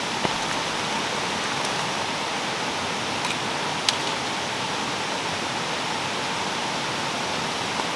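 Heavy rain falling steadily, a constant hiss, with a few sharp taps of drops striking something close by.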